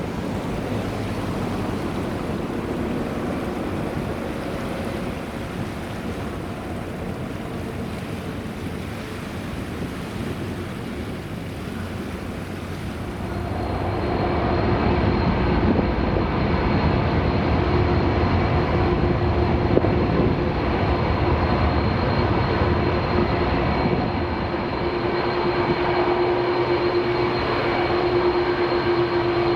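Jet airliner, an Airbus A321neo on landing approach: a steady rushing engine noise that grows louder about halfway through. From then on a low steady hum and a faint high whine sit over it.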